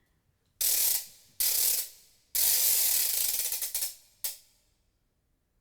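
Ratchet winding clicks in four bursts: two short ones, a longer run of fast ticking, then a brief last one. It is the wind-up sound for the clockwork doll in the aria.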